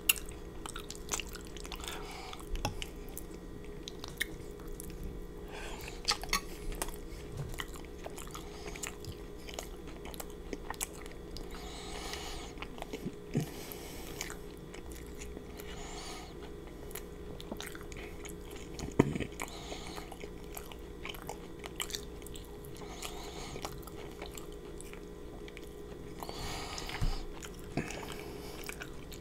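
Close-miked chewing of soft fettuccine noodles in creamy chicken chili sauce: wet mouth sounds and small clicks, with a sharp click just after the start and another about two-thirds of the way through.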